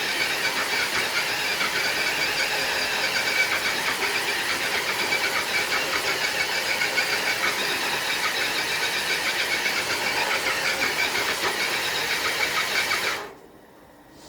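Electric motor and gear whine of an HB Toys RC truck under load, pulling a weighted sled across concrete: a steady, high whirring that stops abruptly about 13 seconds in.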